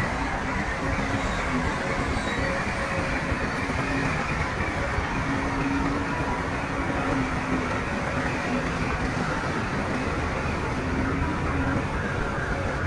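Heavy diesel earthmoving machinery running steadily under load, a dense rumble with a faint wavering hum.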